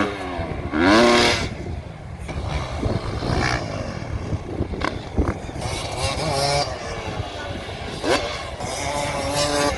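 Dirt bike engines revving, the pitch rising and falling repeatedly, with a loud climbing rev about a second in and another near eight seconds.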